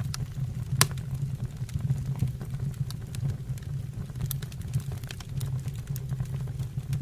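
Wood fire burning in a fireplace, crackling with irregular small pops over a steady low rumble of flame. One sharper, louder pop comes about a second in.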